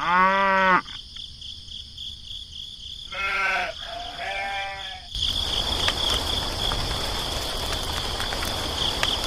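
A farm animal bleating three times, the first call loudest with its pitch rising and falling, followed from about halfway through by a steady rushing noise over a thin high-pitched whine.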